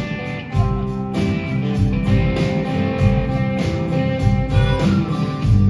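Live rock band playing an instrumental passage between vocal lines, with guitars, bass and drums over a steady beat.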